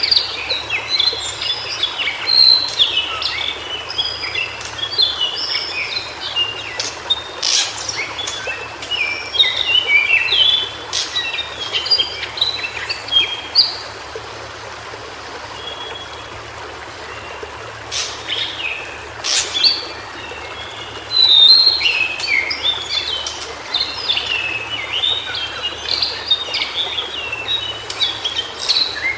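White-browed shortwing singing phrases of rapid, jumbled high warbling notes, with a lull in the middle before the song resumes. A steady hiss of background noise runs beneath, broken by a few sharp clicks.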